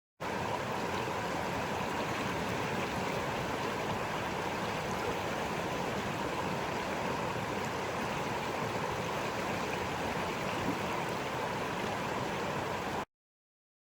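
A creek's water flowing steadily, an even rushing noise with no other sound over it. It cuts in and cuts off abruptly.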